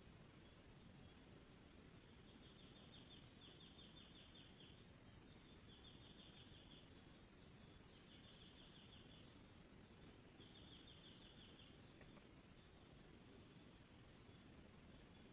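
Insects in a field: a steady, high-pitched drone, with about five short pulsing trills from another insect breaking in through the middle.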